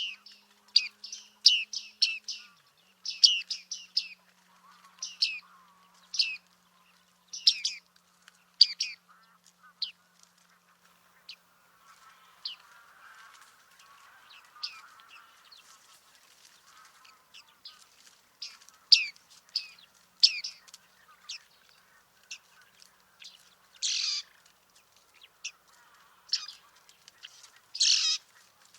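Bearded tits calling: short, high calls, at times several in quick succession, with two longer, louder calls near the end.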